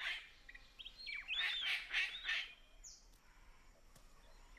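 Palm cockatoo calling: a run of whistled, bending calls starting about a second in and lasting just over a second, with a few short, high chirps before and after.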